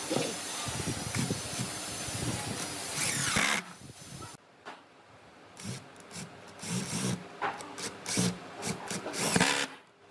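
A power tool runs steadily with a thin high whine, then winds down and stops about three and a half seconds in. Scattered knocks and rubs of wood being handled follow.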